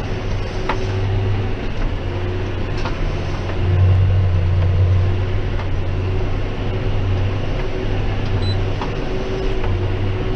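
John Deere 6190R tractor's diesel engine running under heavy load while pulling a Claas 3300 baler through barley straw: a steady low drone that swells about four seconds in and eases again, with a few faint clicks.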